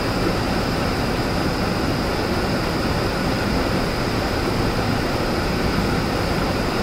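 Waterfall pouring into a rock pool: a steady, even rush of falling water that does not change.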